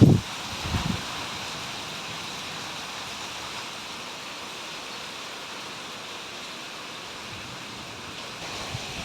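Heavy rain falling with a steady hiss. There are a couple of brief low thumps in the first second, the first of them the loudest sound.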